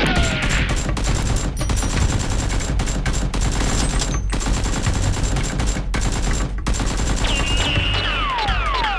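Rapid gunfire sound effects: a dense, continuous volley of shots, with several falling whistle-like glides near the end.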